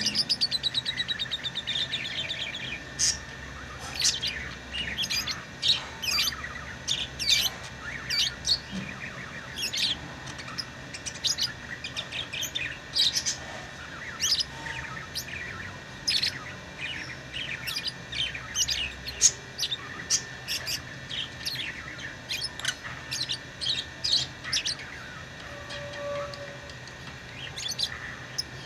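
Pet lovebirds chirping: a flock's worth of short, sharp high chirps overlapping without pause, opening with a quick run of chirps that falls in pitch.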